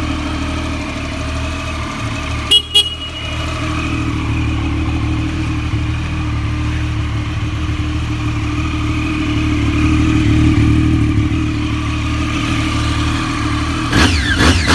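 2013 Triumph Daytona 675's three-cylinder engine idling steadily. Its horn gives two quick short beeps about two and a half seconds in, and there are a few brief sharp sounds near the end.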